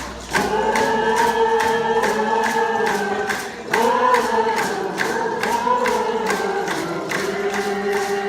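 A group of Lummi youth singing a canoe-family song in unison over a steady drumbeat of about three beats a second. The voices break off briefly about halfway through and then come back in.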